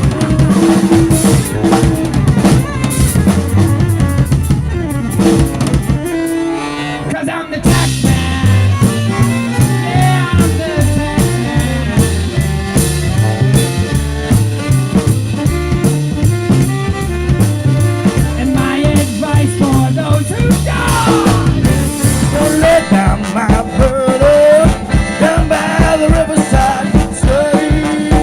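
Band music with a drum kit and bass playing, no singing; the band drops back for a moment about six seconds in, then the full drums return, and a lead melody enters in the last few seconds.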